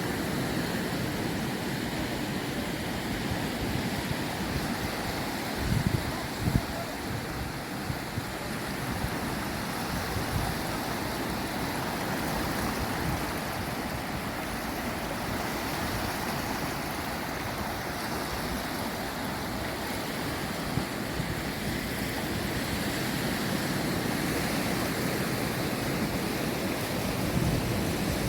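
North Atlantic surf washing steadily onto the shore, with a few low thumps about six seconds in.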